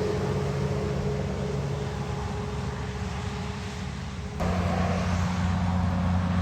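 Heavy trucks' diesel engines running as they pass. The sound fades a little, then switches abruptly about four seconds in to a louder, lower engine drone.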